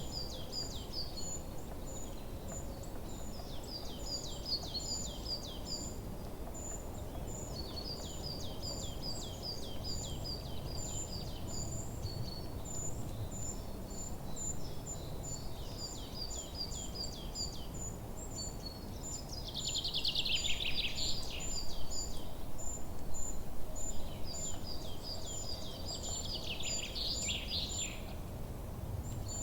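Forest birdsong: one bird repeats a very high, thin note steadily while other birds sing short phrases of rapid notes every few seconds, two of them louder and fuller in the second half, over a low steady background hiss.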